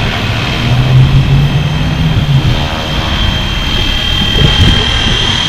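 Flywing FW450 V3 electric RC helicopter in flight: the rotor's hum and the motor's steady high whine, the low rotor hum strongest between about one and two and a half seconds in.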